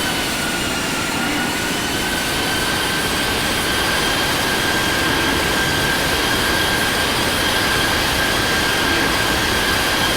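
Jet airliner engines running at takeoff power during the climb: a steady engine whine over a broad rushing roar. The whine drops slightly in pitch near the start, then holds steady.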